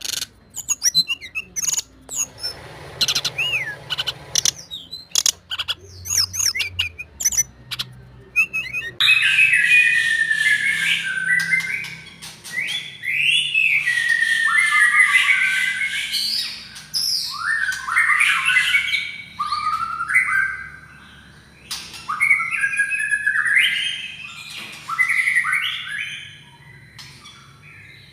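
White-rumped shama (Murai Batu Medan) singing hard. It starts with short sharp clicks and quick notes, and from about nine seconds in it runs into long, loud strings of varied whistled phrases full of falling sweeps, with brief pauses between them.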